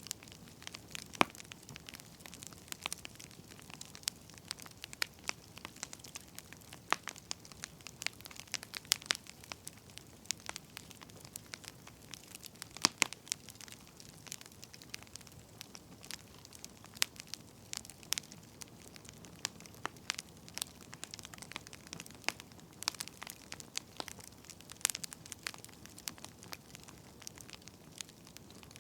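Wood fire crackling: irregular sharp pops and snaps over a faint steady hiss, a few of them louder than the rest.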